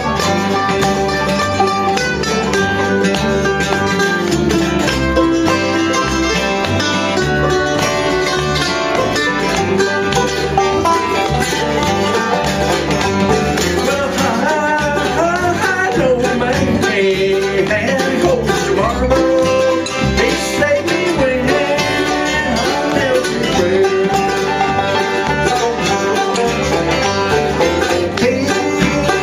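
Bluegrass band playing live, with banjo and guitar picking over a steady bass beat: an instrumental stretch of a bluegrass gospel song.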